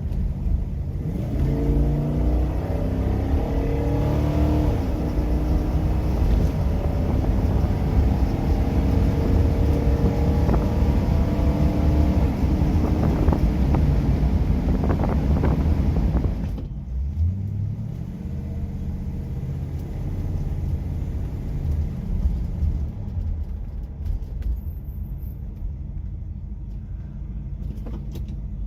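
1966 Oldsmobile Toronado's V8 engine pulling hard under acceleration, its pitch rising several times as it works up through the gears, heard from inside the cabin. About two-thirds of the way through it drops suddenly to a quieter, lighter-load run, with one short rise in pitch.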